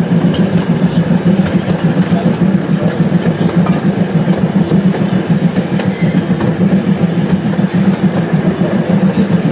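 Park ride train running along its track, heard from on board: a steady low rumble with scattered clicks from the wheels on the rails.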